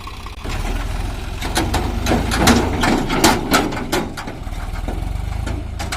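Swaraj 744 FE tractor's three-cylinder diesel engine running with a low rumble that gets louder about half a second in. A rapid string of sharp clatters and knocks sounds over it through the middle.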